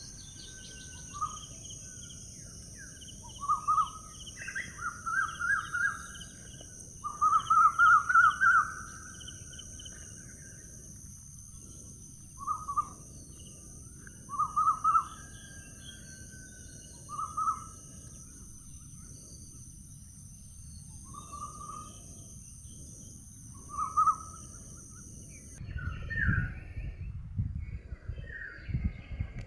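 Birds singing in short, trilled phrases that repeat every second or two, over a steady high-pitched hiss. The hiss cuts off abruptly about 26 seconds in, and a low rumble like wind on the microphone follows.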